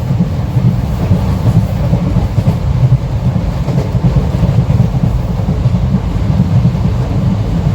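Passenger train running along the track, a steady loud low rumble.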